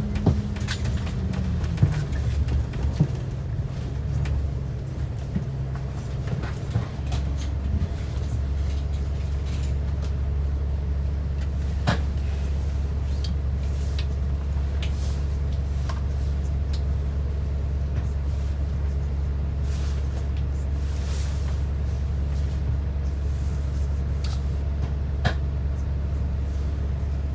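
Transit bus running, heard from on board: a whine falls in pitch over the first two seconds, then a steady low drone settles in from about eight seconds, with occasional rattles and clunks.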